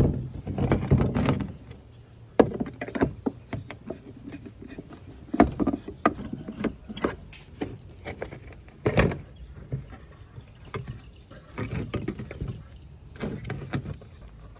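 Hand work on a tape player's parts: irregular clicks and knocks, a few of them sharp, with scraping and rustling in between.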